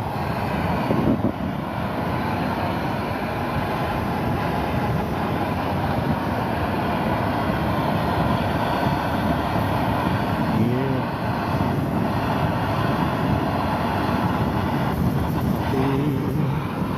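Steady rushing noise of rain falling on a tarp overhead.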